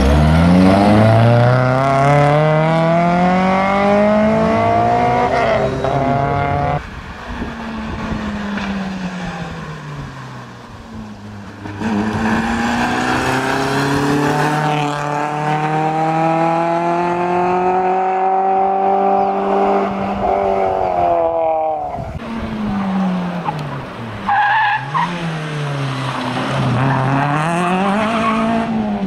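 Suzuki Swift GTi rally car's four-cylinder engine driven hard: the engine note climbs repeatedly and drops at each gear change as the car pulls away and runs flat out through the stage. Level dips at two points where one pass gives way to the next.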